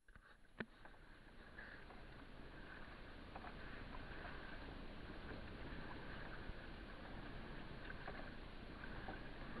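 Pedal kayak under way on the water: a steady rushing of water along the hull, with a few small ticks and a sharp click about half a second in.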